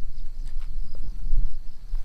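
Strong wind gusting over the microphone, a loud low rumble that swells and dips, with insects chirping in a steady pulsing trill behind it.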